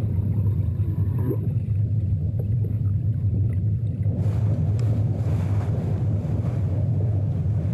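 Low, steady hum of a whaling ship's engine, with a hiss of water and waves joining about four seconds in.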